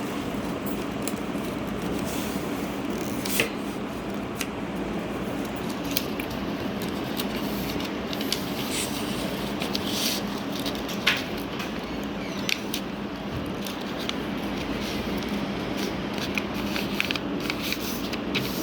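Paper being handled and creased, in scattered short crinkles and clicks over a steady low hum.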